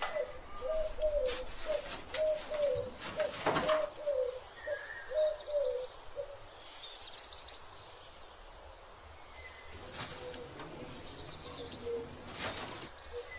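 Birds calling: a run of short, low cooing notes for the first six seconds, fainter again near the end, with quick high chirps over them. A few short rustles of handling come through now and then.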